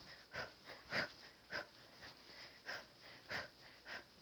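Short, sharp breaths pushed out in a steady rhythm, about one every half second or so, one with each hook punch of a kickboxing drill.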